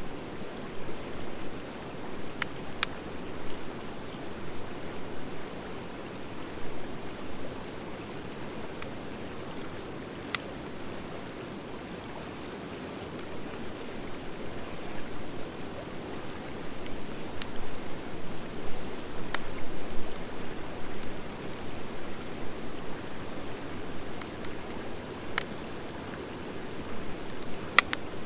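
Wood fire of driftwood and dry hardwood burning steadily, a continuous rushing that swells and falls, with a few sharp isolated crackles and pops from the hardwood.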